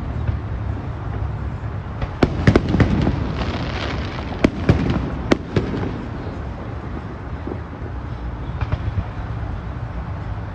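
Aerial fireworks bursting: a run of sharp bangs between about two and six seconds in, with crackling among them, then fewer, fainter pops.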